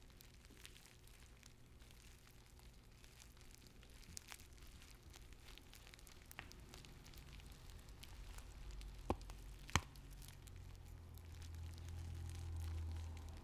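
Tea bags handled close to the microphone, soft crinkling and squishing with many small crackles and two sharper clicks about nine and ten seconds in.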